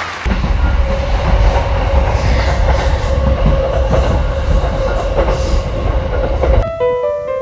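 Regional passenger train running along the platform track: a loud, steady low rumble of wheels on rail with a steady hum over it. It cuts off sharply near the end, where piano music starts.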